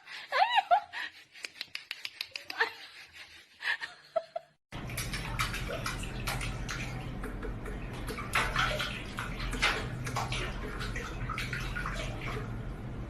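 A few short pitched calls among clicks. After a cut about five seconds in comes a steady rush like running water, with splashes and clicks.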